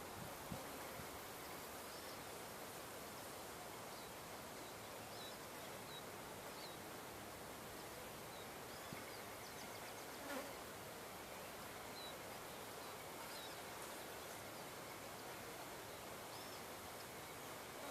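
Faint, steady outdoor background hiss with scattered small, high chirps and a single soft knock about ten seconds in; no engine running.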